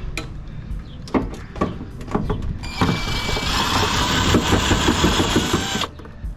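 A few sharp metal knocks, then a power driver runs hard for about three seconds with a rapid pulsing rattle, backing screws out of a PTAC unit's sheet-metal housing, and cuts off suddenly.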